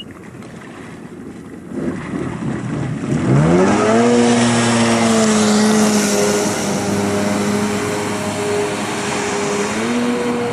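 Jet ski engine accelerating hard from low revs about three seconds in, then running at a steady high pitch over the rush of spray and wind. The revs dip briefly near the end and climb again.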